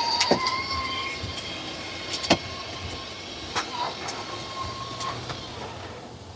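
Battery-powered ride-on toy police car driving under remote control: a steady electric motor whine with scattered clicks and rattles, growing fainter.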